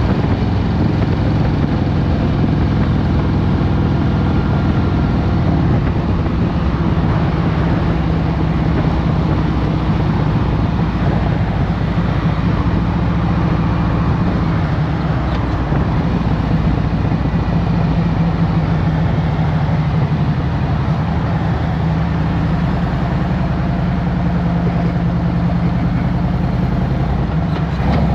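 2023 Harley-Davidson Road Glide Special's Milwaukee-Eight 114 V-twin running steadily, with a constant rushing noise over it.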